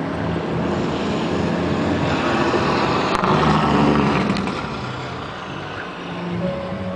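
A motor vehicle's engine running as it passes, growing louder to a peak about three to four seconds in and then fading.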